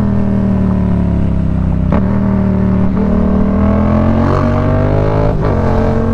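Yamaha MT-07's parallel-twin engine running under way, its pitch dipping slightly and then climbing steadily through the middle as it pulls. Two short knocks break in about two seconds in and again near the end.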